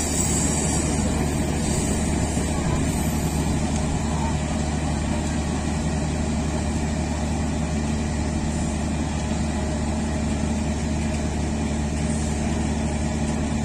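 Steady low hum of diesel engines idling on a stationary diesel-hauled passenger train, held at a signal.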